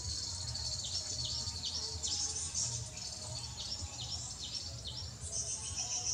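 A bird chirping over and over, short high calls about two a second, over a steady high insect drone and a low background rumble.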